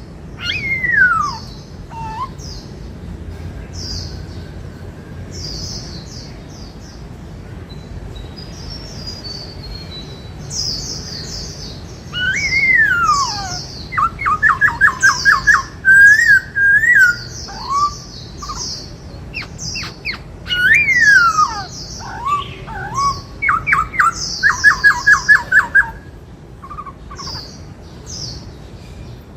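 Black-throated laughingthrush singing: loud whistles that glide downward and two fast rattling trills of about a dozen notes each, the loudest parts in the second half, over short high chirps repeating throughout.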